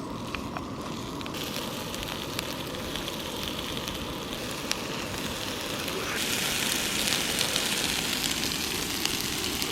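Sausages frying in a pan: steady sizzling with scattered pops, growing louder about a second in and again around six seconds in.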